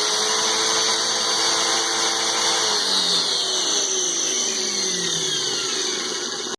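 Small electric pressure washer running with its motor's steady whine, back in working order after its worn carbon brushes were cleaned; it had been cutting out. About three seconds in, its pitch starts to fall steadily.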